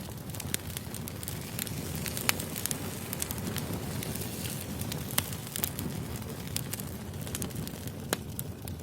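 Wood fire burning: a steady low rumble of flames with irregular crackles and sharp pops of burning logs, the loudest pops about two and five seconds in.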